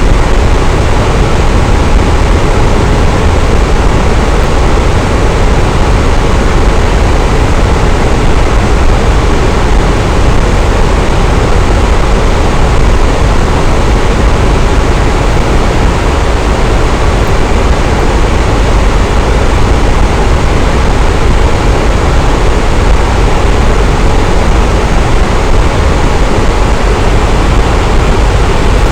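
Electric fan running steadily: an even, unbroken whoosh of moving air, heaviest in the low end.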